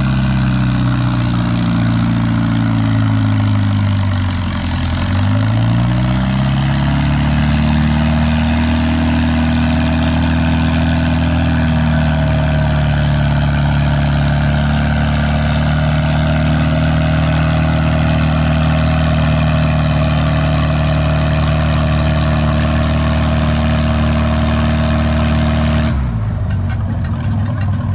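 Farm tractor engine pulling a weight sled under full load in a tractor pull. Its pitch sags briefly about four seconds in, recovers and holds steady, then drops off abruptly about two seconds before the end.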